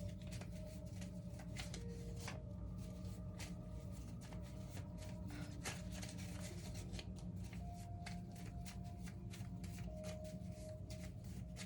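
Tarot cards being shuffled by hand: a dense, continuous run of light clicks. Under it are a low hum and a few faint held tones.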